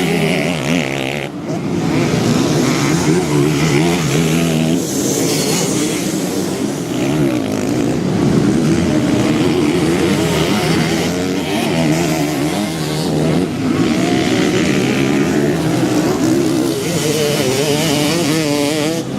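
Motocross bike engine revving hard, its pitch rising and falling over and over as the throttle opens and closes, with a brief drop about a second in.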